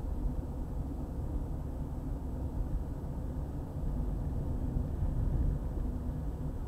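Car driving at road speed: a steady low rumble of tyre, road and engine noise, a little louder around four to five seconds in.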